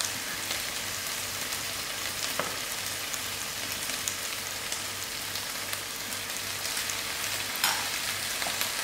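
Chicken giblets frying in a pan of hot oil with Worcestershire sauce and lemon juice: a steady sizzle with fine crackling. There is one brief louder hiss about three-quarters of the way through.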